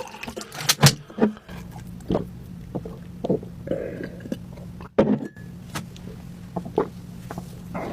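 Close-miked drinking and mouth sounds from someone cooling their mouth after spicy noodles: a series of gulps, lip smacks and small clicks, over a steady low hum.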